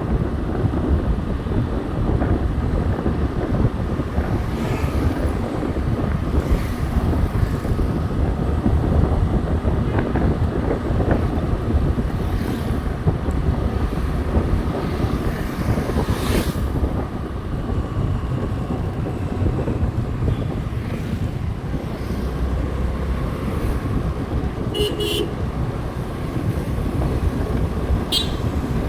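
Wind buffeting the microphone over the steady running noise of a motorcycle on the move, with two short horn beeps near the end.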